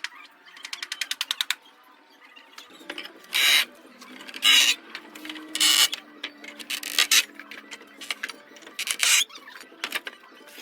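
Hand-tool work: a quick run of sharp clicks, then five short rasping strokes spaced a second or two apart.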